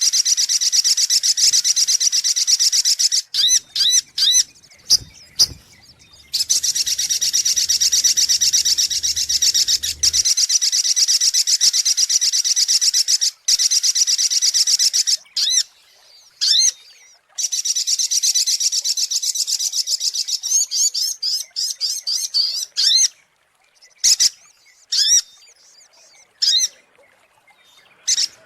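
Sogok ontong (little spiderhunter) calling: long runs of rapid, high-pitched chirps, broken by short pauses and scattered single notes. It is a lure-call recording used to draw wild birds in.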